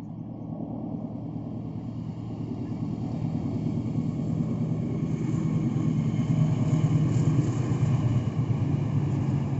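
Approaching Argo Lawu passenger train: the diesel locomotive's engine hum and rumble grow steadily louder as the train nears.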